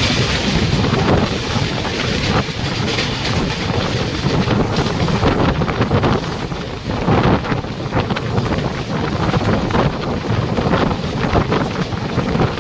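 Train running, a steady dense rumble and rushing noise with an uneven clatter, with wind buffeting the microphone.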